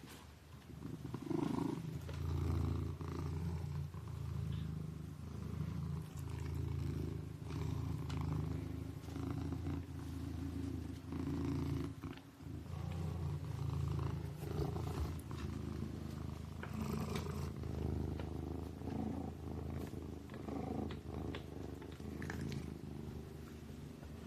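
Kitten purring steadily and low, the purr swelling and easing with each breath about every one and a half to two seconds.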